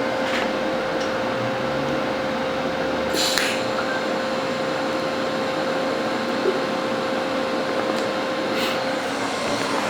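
TIG welding arc running on thin stainless steel at about 80 amps: a steady hiss with a faint steady hum underneath, and two brief crackles, about three seconds in and near the end.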